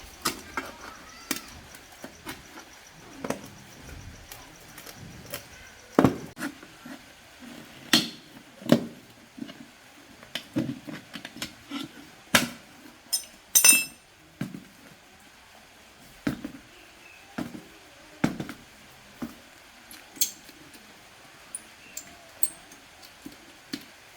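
Irregular metallic clinks and knocks of tools and metal parts being handled during engine repair work. About two thirds of the way through, one strike rings with a high metallic tone.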